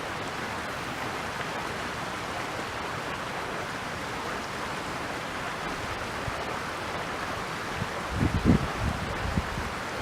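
Steady rush of flowing river water, with a few low bumps near the end.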